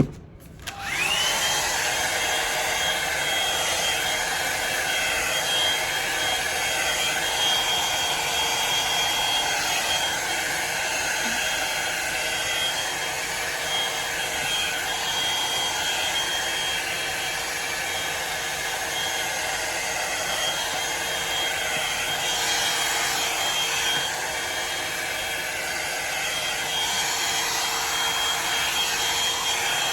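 Drybar Double Shot blow-dryer brush switched on about a second in, its motor whine rising briefly and then settling. It runs steadily with a high whine over rushing air.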